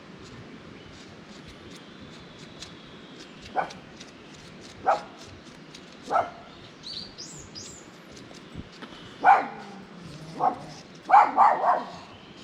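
A dog barking: single barks about a second apart at first, then louder, quicker barks near the end. A bird chirps twice in between.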